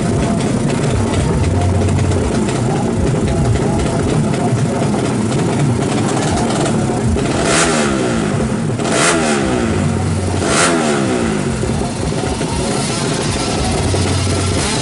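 Drag-race motorcycle engines held at the start line and revved in repeated blips, the pitch rising and falling again and again, with three sharper peaks in the second half.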